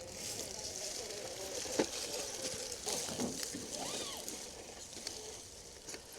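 Small electric motor of an RC crawler truck whining faintly and steadily as it drives, with one sharp knock about two seconds in.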